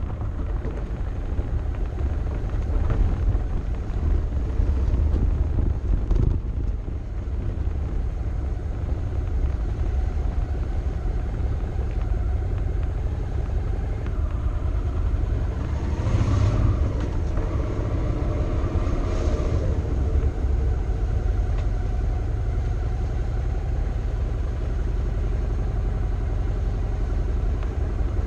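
Motorcycle riding along a road, heard from a camera mounted on the front of the bike: a steady low engine and wind rumble, with a brief rise and fall in pitch a little past the middle.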